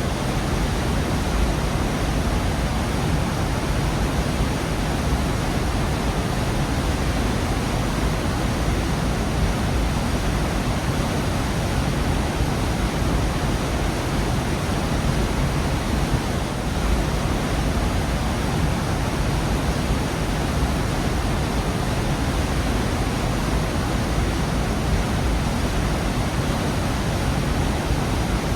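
Gorge waterfall: a steady, unbroken rush of falling water, loud and even, with a deep rumble under it.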